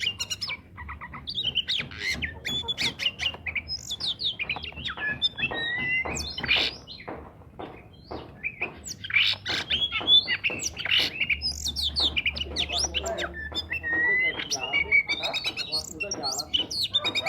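Oriental magpie-robin (kacer) in full song: a fast, varied stream of whistles, gliding notes and chirps with only brief pauses.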